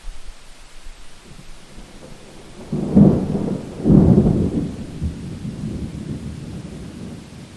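Thunder rumbling over steady rain: a loud clap about three seconds in, a second peak a second later, then a rumble rolling away over the following seconds.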